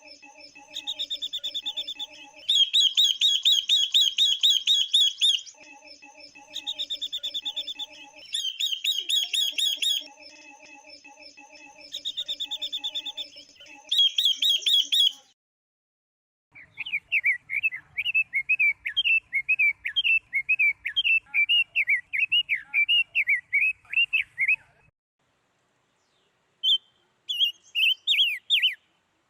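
Calls of female silver-eared mesia and female red-billed leiothrix, the kind played to excite the males. First comes a string of rapid, repeated trilled phrases; after a short pause, about halfway through, there is a long run of quick chattering notes, and a few short notes near the end.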